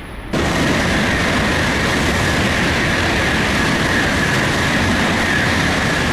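A Tokaido Shinkansen bullet train, most likely an N700A, passing through the station at high speed: a loud, steady rushing that starts suddenly just after the start.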